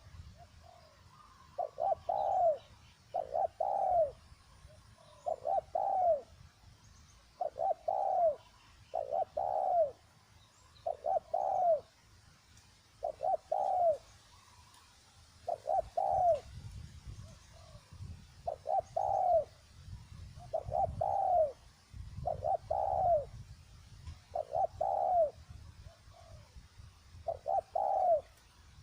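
Spotted dove cooing, repeating a short phrase of two or three arched coo notes about every one and a half to two seconds.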